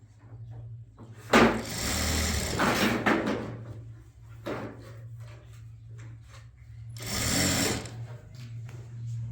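Electric sewing machine stitching in short runs: a loud run of almost two seconds starting about a second in, a brief one near the middle and another of about a second near the end, over a steady low hum.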